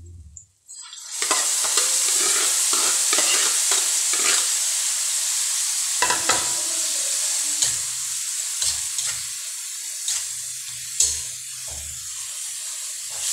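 Dulong, tiny freshwater fish, hit a hot wok of sautéed garlic, onion and tomato, and a loud sizzle starts about a second in and slowly eases. A metal spatula scrapes and clicks against the wok as the fish are stirred through.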